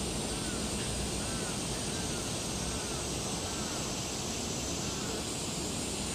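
A bird calling faintly, a run of short rising-and-falling calls about one a second that stops near the end, over steady background noise and a high steady hiss.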